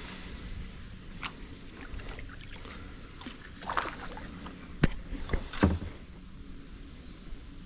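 Kayak being paddled: the paddle dipping and splashing, with several sharp knocks, the loudest about five seconds in.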